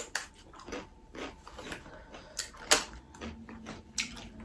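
Crisp papad being bitten and chewed close to the microphone: a run of sharp, irregular crunches and snaps, the loudest a little under three seconds in.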